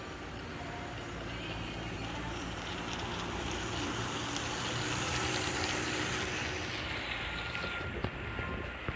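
HO-scale model train running along the layout track, a steady mechanical running noise that grows a little louder toward the middle and eases off after. A few light clicks come near the end.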